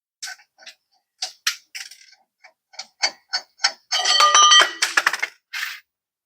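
Hand ratchet working the rear leaf-spring U-bolt nuts loose, giving sharp uneven clicks a few times a second, then a burst of metal clanking with a ringing tone about four seconds in.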